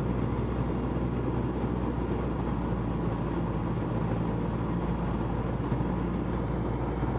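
Cessna 172's piston engine and propeller droning steadily inside the cockpit, mixed with airflow noise, throttled back in the landing pattern with the first notch of flaps out.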